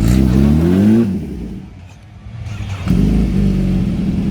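Motorcycle engine revving, its pitch rising for about a second, then falling away to a quiet stretch; about three seconds in, a motorcycle engine comes back close and runs steadily.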